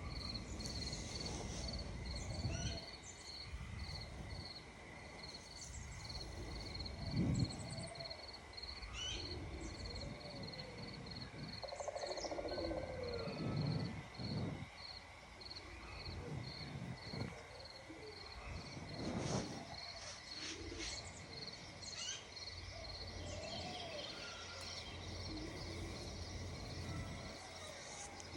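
An insect chirping in a steady rhythm, a high pulsing note about two to three times a second, with scattered short bird calls over a low background rumble and a few brief low thumps.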